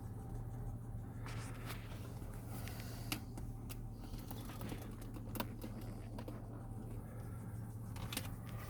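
Scattered light clicks and taps, with a few sharper ones about three, five and a half and eight seconds in, over a faint steady low hum.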